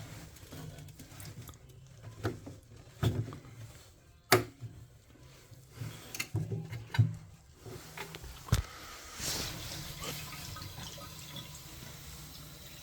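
Sharp clicks and knocks of boiler parts being handled, then from about nine seconds in a steady sound of water being poured into the boiler's clogged condensate trap.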